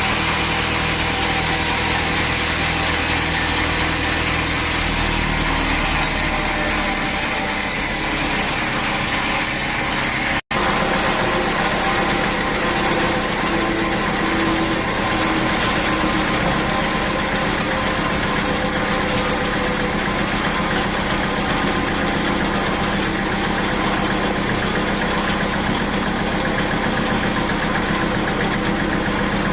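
Sawmill machinery running steadily, an engine or motor-driven saw humming with a steady mix of tones. The sound drops out for an instant about ten seconds in, and the mix of tones is slightly different after the break.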